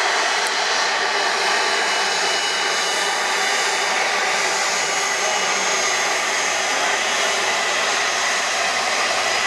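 Jet airliner engines making a loud, steady roar with a faint high whine over it.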